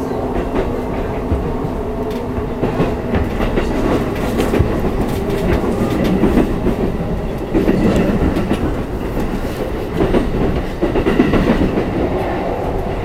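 Wind and running noise rushing through the gangway between two cars of a moving Yamanote Line commuter train. The noise is loud and steady, swelling several times, with the clickety-clack of the wheels over rail joints.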